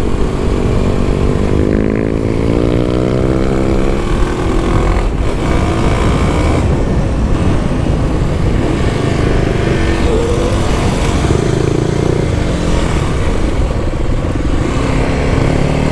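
Kawasaki KLX300's single-cylinder engine under hard acceleration, its pitch rising for about four seconds, then dropping at a gear change and pulling again, with wind noise over the microphone.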